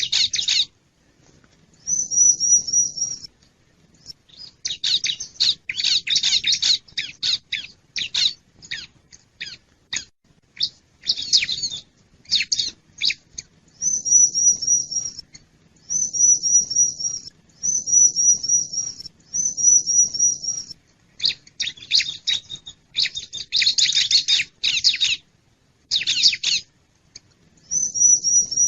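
Bar-winged prinia (ciblek) calls played as a trapping lure. Bursts of rapid chattering alternate with short, high trilled phrases about a second long, and short gaps fall between them. Several trilled phrases come in a row through the middle.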